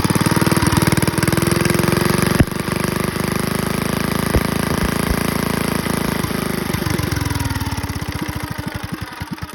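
1946–47 Clinton 700A single-cylinder small engine running on its first run after decades of storage, firing in a fast, even beat. There is a sharp click about two and a half seconds in. Near the end the firing slows and the engine gets quieter as it winds down.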